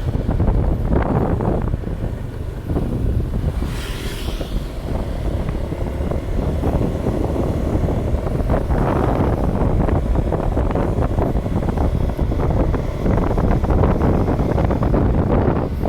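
Wind buffeting the microphone: a loud, rough rumble with no steady tone, and a brief higher hiss about four seconds in.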